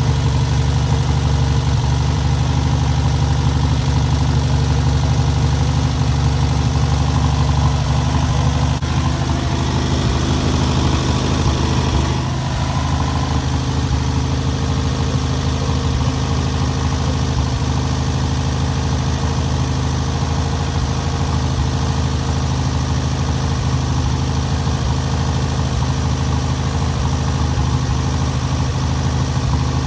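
Freshly rebuilt VW 1600cc air-cooled flat-four engine running steadily on its first run, during break-in. About twelve seconds in its speed and level drop a little, then it runs on evenly.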